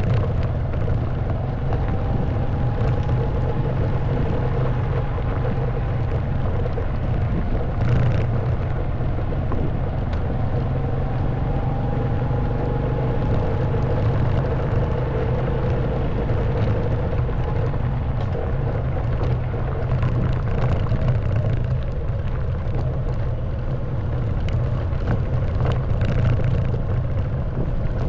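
Honda Wave 110cc single-cylinder four-stroke engine running steadily under way, its pitch rising and falling gently. Scattered short knocks and rattles run through it, over a heavy low rumble.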